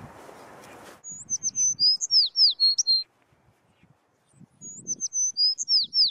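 A songbird singing a short phrase of quick, high, down-slurred chirps, then repeating it almost exactly after a pause of about a second and a half.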